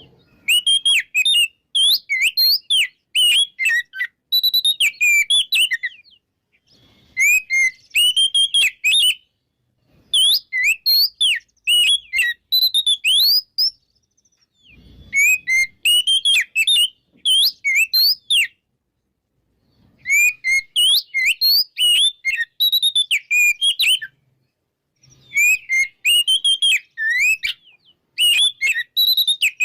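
Oriental magpie-robin singing: repeated phrases of quick, varied whistled notes, each phrase one to three seconds long, separated by short pauses.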